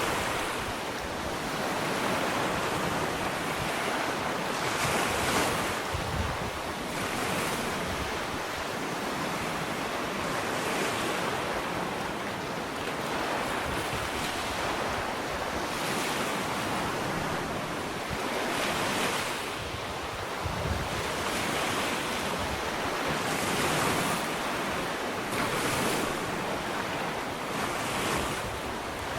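Ocean waves breaking and washing up a sandy beach, a steady rush of surf that swells every few seconds, with some wind on the microphone.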